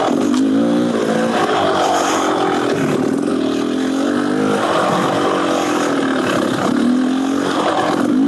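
Beta Xtrainer 300 two-stroke single-cylinder dirt bike engine, fitted with an FMF Gnarly exhaust, revving up and down over and over as the throttle is opened and closed while riding.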